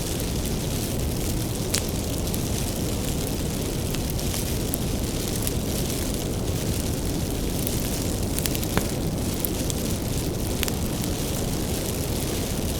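Wood bonfire burning with a steady low rumble and a few sharp crackles and pops from the firewood, scattered a few seconds apart.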